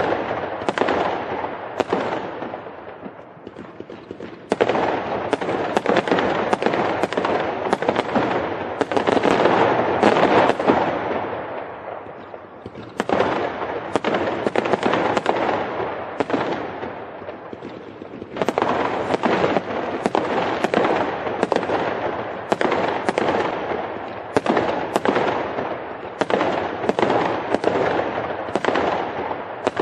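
Fireworks going off in quick succession: a dense run of sharp bangs and crackling. It swells afresh with loud volleys about four, thirteen and eighteen seconds in, and each volley dies away over several seconds.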